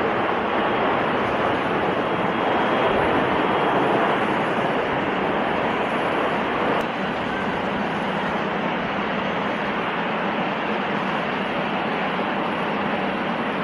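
Steady jet noise from a Lufthansa Airbus A340 landing fast without flaps. It dips slightly about seven seconds in.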